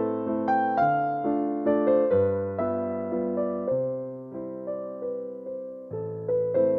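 Soft piano music, an electric piano playing a slow melody of single notes over sustained chords, each note struck and fading away.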